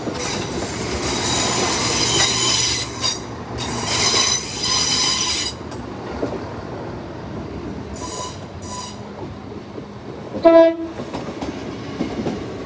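CrossCountry diesel passenger train running along the platform, its engine humming under a high-pitched wheel squeal that stops about five and a half seconds in. About ten and a half seconds in, a short, loud train horn toot.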